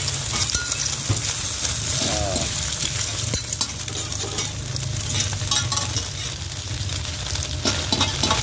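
Bột chiên (rice-flour cake cubes) and eggs sizzling in oil on a large flat iron pan, with scattered clinks and scrapes of a metal spatula against the pan. A steady low hum runs underneath.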